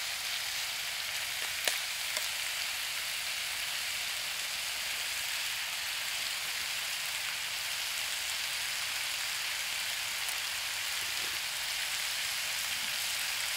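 Chicken pieces sizzling in a small frying pan on a wood gasifier stove: a steady frying hiss, with a couple of light clicks about two seconds in.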